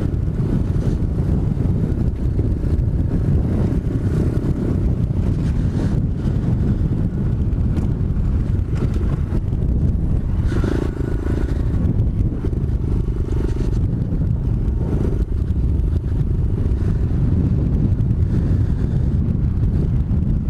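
A 125cc pit bike's engine running steadily as it is ridden, with heavy wind buffeting on the rider's microphone.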